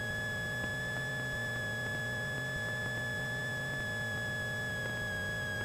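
Cessna 172 cockpit audio: the engine runs steadily as a low drone, under a constant high-pitched whine.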